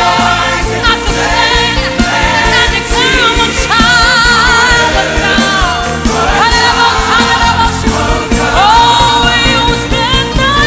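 Live gospel worship music: a sung melody with wavering, sustained notes over choir voices and a band with a steady beat.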